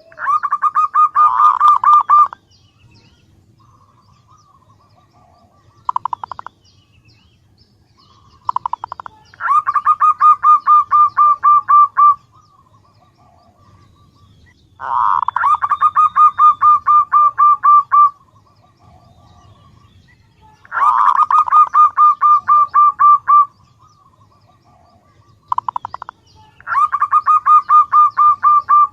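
Female zebra dove cooing: five bouts of quick, evenly spaced notes about every six seconds, each lasting two to three seconds, with short clipped phrases between them. It is a female's call used as a lure to draw in males.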